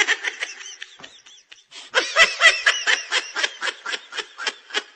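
High-pitched, rapid snickering laugh from a meme sound clip. It is quieter for a moment about a second in, then picks up in quick bursts, about five a second.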